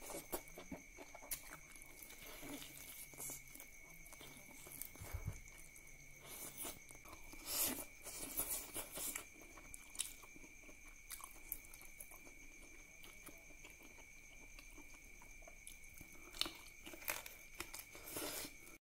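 Close-up chewing and wet mouth smacks of someone eating duck curry and rice by hand, with occasional crunchy bites, louder about halfway through. A steady high-pitched tone runs faintly underneath.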